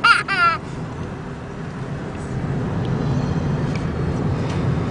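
A short, high, gliding vocal call right at the start, then a steady low rumble like a running vehicle.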